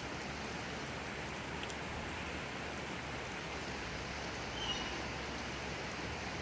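Steady rain falling, an even hiss. A brief faint high sound cuts in about three-quarters of the way through.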